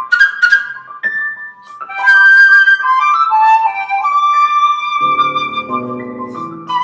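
Flute and piano duet in a contemporary classical piece: the flute plays a few short clipped notes, then longer held notes that step downward, and piano notes come in underneath about five seconds in.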